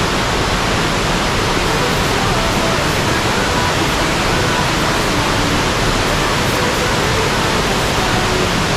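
Waterfall plunging steadily, a dense, even rush of falling water with no breaks, its flow heavy after overnight rain.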